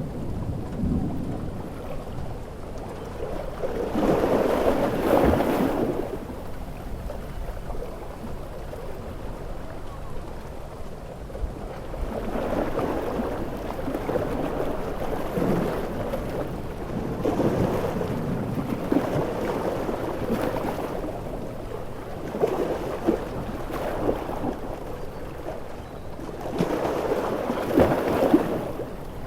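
Stormy coast soundscape: heavy rain with rolling thunder and surf, the noise swelling and falling in surges every few seconds, loudest about four to six seconds in.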